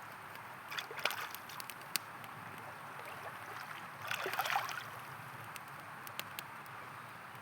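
A river flowing steadily, with louder gurgling swells about a second in and again near the middle, over sharp crackles and pops from a campfire.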